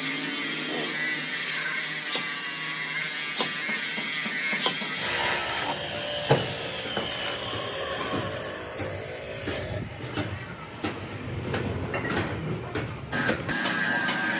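Workshop machinery running steadily, with scattered clicks and knocks. A deeper running sound joins in about five seconds in, and the clicks stand out more clearly in the last few seconds.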